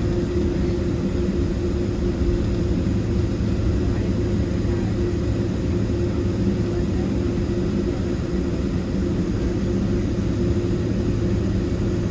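Boeing 767-300ER jet engines running steadily: a constant low drone with a steady hum, no rise or fall in level.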